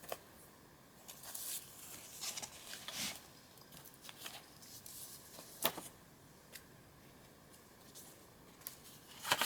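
Paper pages of a handmade journal being handled and turned: scattered soft rustles and a few sharp paper flicks, the loudest about three seconds in, near six seconds and at the end.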